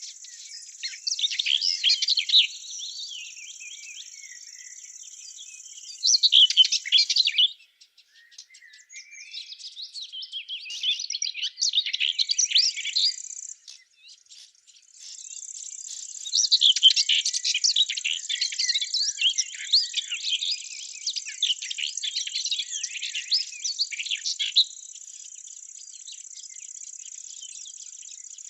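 Small birds singing in quick high chirps and trills over a steady, high insect trill, like grasshoppers or crickets. Both stop abruptly twice, a little past a third and about halfway through, then resume.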